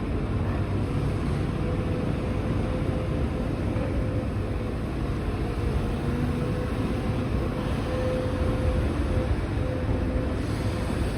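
Demolition excavator's diesel engine running steadily, a low rumble with a faint on-and-off whine above it.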